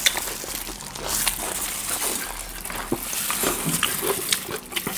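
Close chewing and crunching of chatpate, a crisp puffed-rice snack, with scattered small crackles and clicks.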